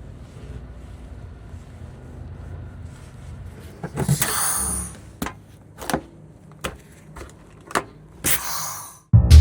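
Truck engine idling with a low rumble, then a run of sharp clicks and knocks with two short hissing bursts, one about four seconds in and one near the end, before the sound cuts off abruptly.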